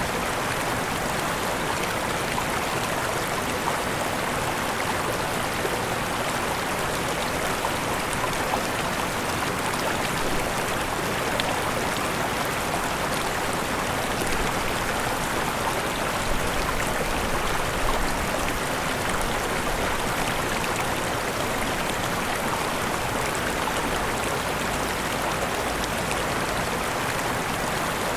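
Waterfall, a steady rush of falling and running water.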